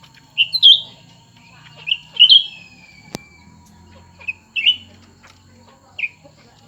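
Cucak ranting birds calling at each other with short, sharp chirps in quick groups of one to three, a second or two apart. A single sharp click comes a little after three seconds in.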